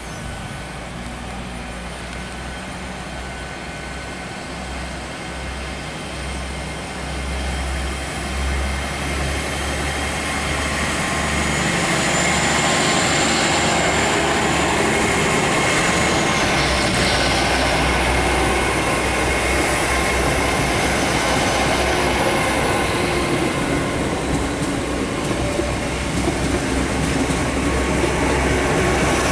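GWR Class 802 bi-mode train running on its underfloor diesel engines as it moves past close by, getting louder over the first dozen seconds and then holding steady. A high thin whine drops in pitch about two-thirds of the way in.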